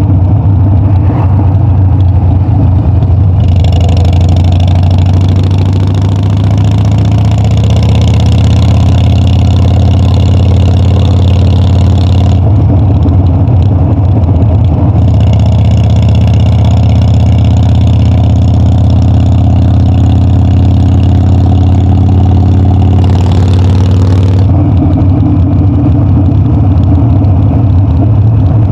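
Harley-Davidson Dyna's V-twin engine and exhaust running steadily under way. A brighter, hissier layer comes in for two long stretches, about 3 to 12 seconds in and again about 15 to 24 seconds in.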